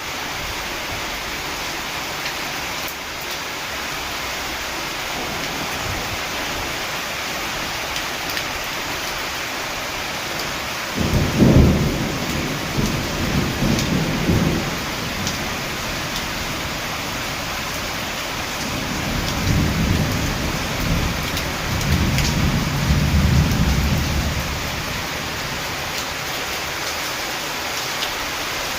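Rain falling steadily, with two peals of thunder. The first starts suddenly a little over a third of the way in and rumbles for about four seconds. The second is a longer rolling rumble that swells twice, later on.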